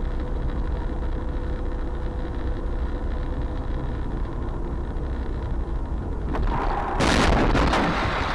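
Steady engine and road rumble inside a moving car, then a loud crash about seven seconds in: a burst of impact and crunching noise lasting over a second.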